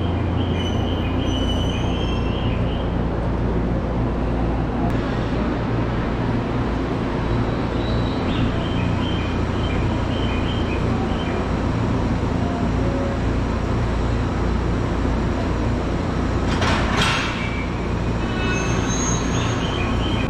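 Narita Express E259 series electric train creeping forward at very low speed to couple with a second set: a steady low hum from the train, with short high squeals from the brakes or wheels. About seventeen seconds in comes a short burst of noise.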